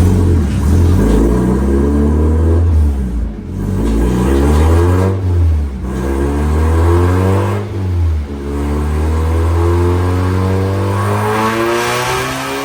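Mazda Miata four-cylinder engine at full throttle on a chassis dyno, pulling a baseline run on factory timing and running a little rich. The revs climb and drop briefly three times at the upshifts, then climb steadily in the last gear.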